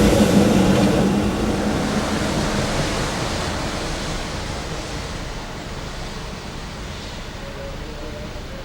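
A train that has just passed, running away from the crossing: its rumble fades steadily throughout, and a low drone drops out about three seconds in.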